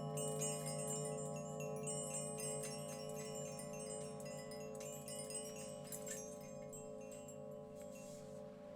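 Chimes tinkling, many high ringing notes that thin out near the end, over the steady hum of singing bowls whose lowest tone wavers in a fast, even pulse.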